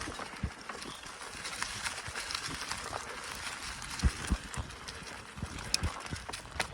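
Bicycle ridden over a rough forest track: tyres rolling with a steady gritty noise, light clicks and rattles, and irregular low thumps as the wheels hit bumps.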